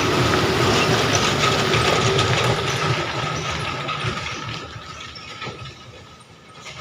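Heavy diesel truck engine working hard under load on a muddy climb, with a steady high whine over it. About halfway through it grows steadily fainter.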